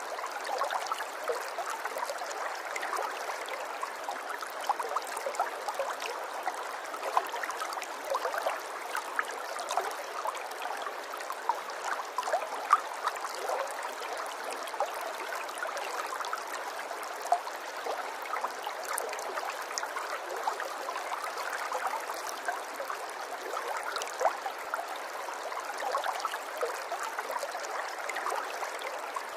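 Running water: a steady rush with many small splashes and drips scattered through it.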